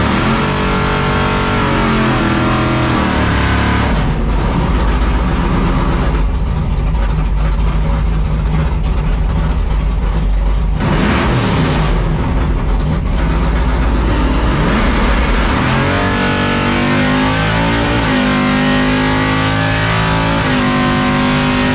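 Drag racing engines during a run: pitch rising and falling at first, then a long stretch at full throttle in the middle, and engines settling to steadier running near the end.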